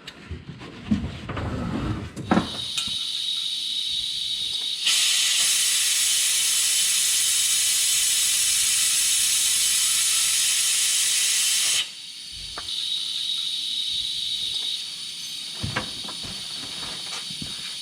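A long, steady hiss of pressurised air or spray escaping, loudest for about seven seconds in the middle, with a softer hiss before and after.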